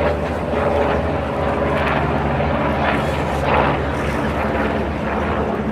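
Aircraft engine running with a steady low hum under a wide, even noise.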